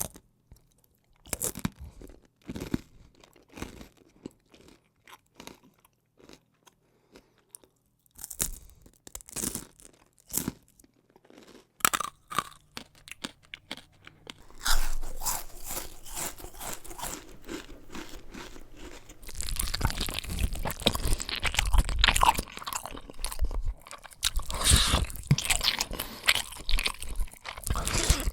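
Close-up eating sounds: scattered crisp crunches and clicks with pauses between them for the first half, then steady crunchy chewing from about halfway, growing denser and louder in the last third.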